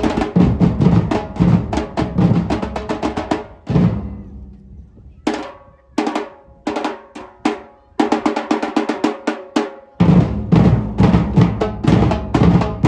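Live band music driven by a drum kit, with snare and bass drum playing a dense rhythm. About four seconds in the band drops to a few separate accented hits, then the full groove comes back about eight seconds in.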